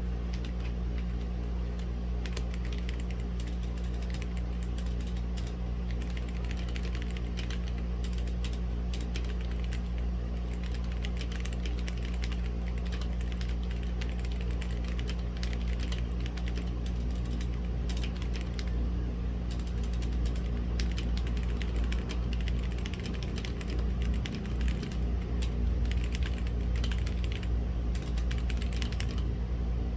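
Typing on a Womier/Gamakay K87 mechanical keyboard with linear red switches: a steady stream of keystrokes, over a steady low machine hum in the background.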